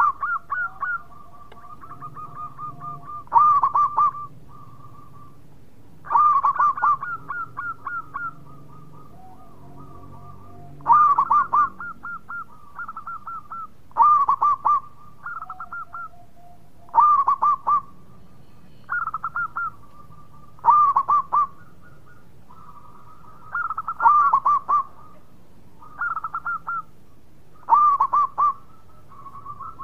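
Zebra dove (perkutut) singing its cooing song: about ten phrases roughly three seconds apart, each a loud opening note followed by a quick run of short rolling coos.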